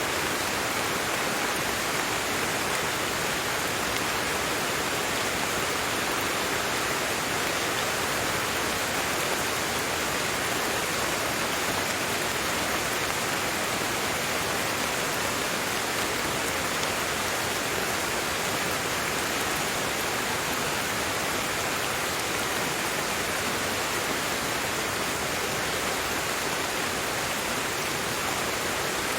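Steady rain falling, an even hiss with no distinct drops or rumbles, constant in level.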